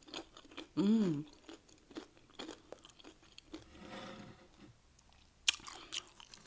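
Doritos nacho chips being bitten and chewed close to the microphone: a series of sharp crunches. About a second in comes a short hummed voice sound, and a burst of louder crunches follows near the end.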